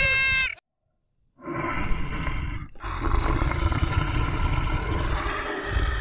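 A high, steady deer call cuts off about half a second in. After a second of silence a cheetah growls with rough, noisy sounds: a short one, then a long one of about three seconds.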